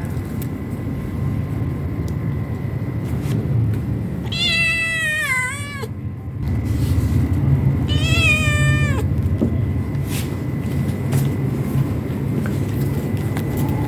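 Cat meowing twice, about four and eight seconds in, each a long call that falls in pitch, over a steady low rumble.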